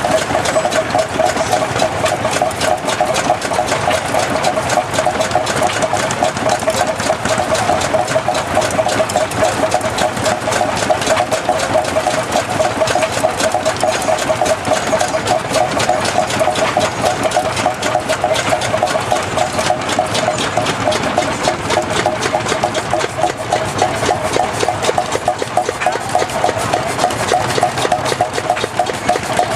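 Hot-bulb tractor engine running steadily with a fast, even beat.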